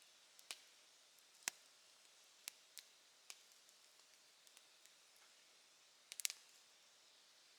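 Campfire crackling: scattered sharp pops at irregular intervals, then a quick cluster of several pops about six seconds in.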